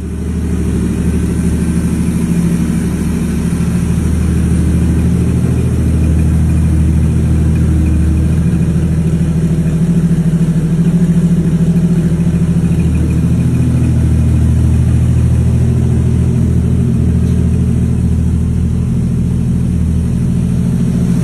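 Car engine running steadily, with small shifts in pitch; most likely the 1975 Chevrolet Cosworth Vega's twin-cam four-cylinder.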